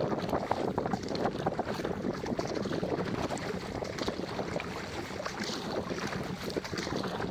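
Wind buffeting the camera's microphone, mixed with water splashing and slapping around an inflatable stand-up paddleboard on choppy water.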